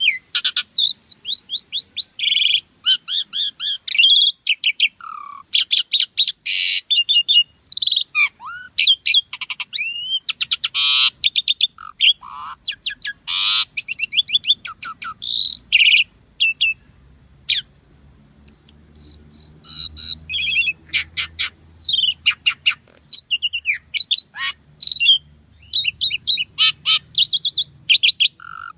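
Asian pied myna singing a long, varied run of whistles, rapid chattering notes and clicks, with a short break a little past halfway.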